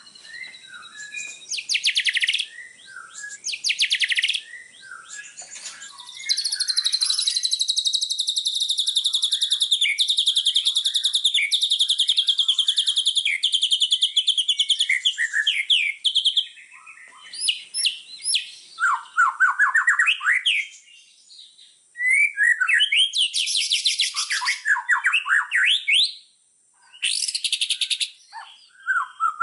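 Small songbirds singing high, rapid trills and chirps. About six seconds in comes one long, unbroken buzzy trill lasting some ten seconds, followed by shorter bursts of trills with brief pauses between them.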